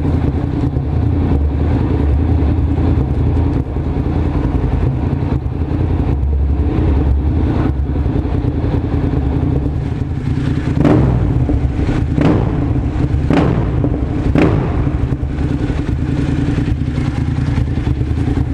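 Honda NC700S parallel-twin engine running through a Leo Vince carbon exhaust with an Arrow collector, idling steadily. About ten seconds in, it is revved in four short throttle blips about a second apart.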